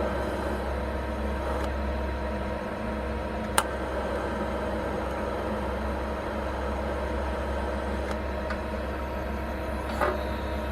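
A steady machine hum, made of a low drone and several steady tones, broken by a sharp click about a third of the way in and a smaller click near the end.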